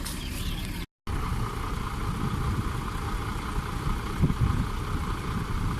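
Heavy diesel engines of earthmoving machinery running steadily, with a sudden cut to silence for a split second about a second in.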